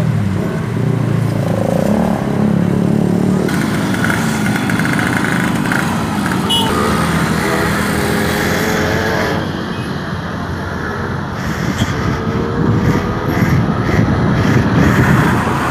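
A motor vehicle engine running with a heavy, steady rumble, getting a little louder in the last few seconds.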